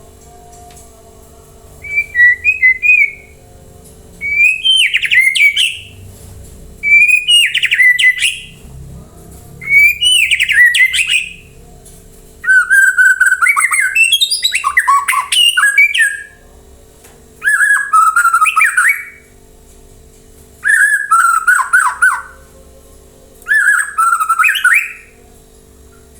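Murai (white-rumped shama) singing: about eight loud phrases of rich whistles and rattling notes, each lasting one to four seconds with short pauses between them.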